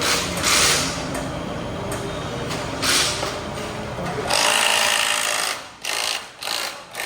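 Workshop power tool running in several short bursts over a steady low rumble, the longest burst a little after the middle.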